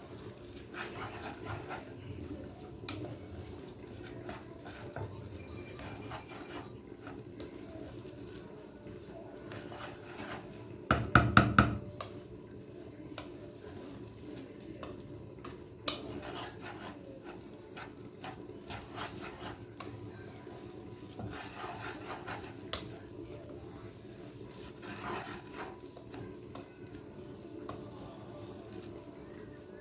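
A spoon stirring and scraping in a cooking pot, with a quick run of loud taps on the pot about a third of the way in and a single knock a few seconds later. A steady low hum runs underneath.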